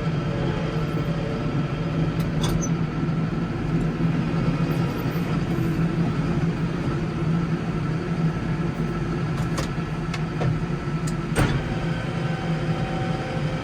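Case 115U tractor engine running steadily, with a few light clicks or knocks scattered through.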